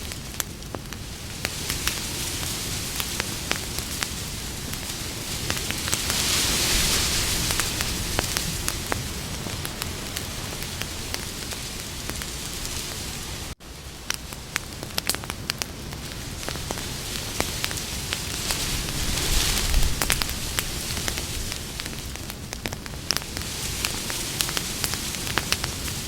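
Wood campfire burning with a steady hiss and many sharp crackles and pops, swelling louder twice. About halfway through it briefly cuts out for an instant.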